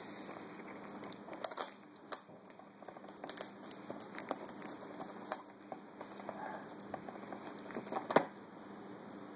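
A grey parrot's beak pecking, biting and crinkling the plastic wrapping of a chocolate Easter bunny: irregular clicks and crackles, the sharpest just after eight seconds.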